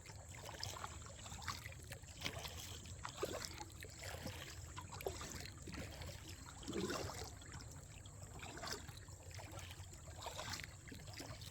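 Kayak paddle dipping into creek water, with small irregular splashes and drips as the kayak is paddled upstream against the current.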